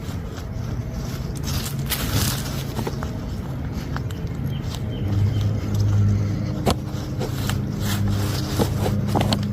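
A motor vehicle's engine running close by, a steady low hum that grows much louder about halfway through, with scattered small scrapes and clicks of digging in soil.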